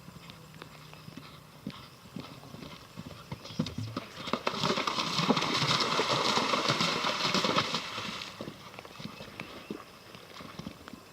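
Horse galloping, rapid hoofbeats growing loud for a few seconds in the middle as it passes close, then fading away.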